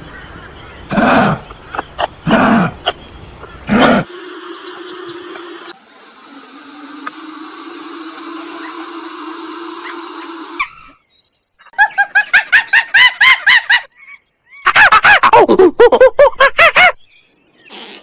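A series of animal calls: a few short loud calls about a second apart, then a steady drone for several seconds, then fast runs of short pitched calls, the last run the loudest, with some calls falling in pitch.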